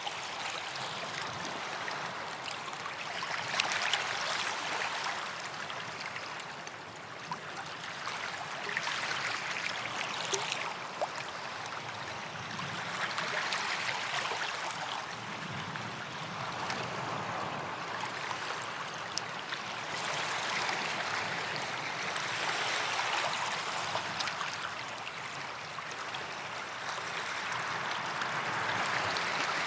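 Small waves lapping on a sandy beach, washing in and drawing back in swells every few seconds, with light trickling and splashing of water.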